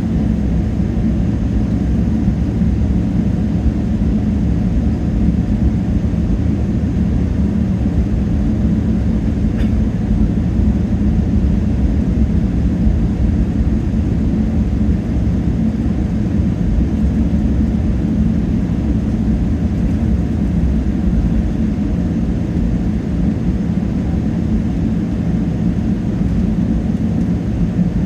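Steady low rumble of a Boeing 777-300ER's GE90 engines and airflow, heard from inside the passenger cabin, unchanging throughout.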